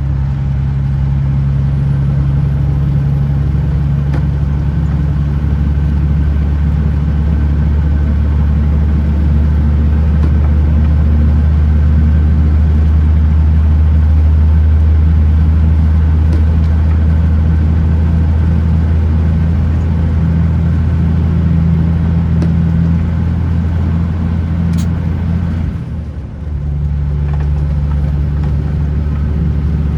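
Kenworth T909 truck's diesel engine running steadily while the truck is driven on the road. Near the end the engine sound dips briefly, then picks up again.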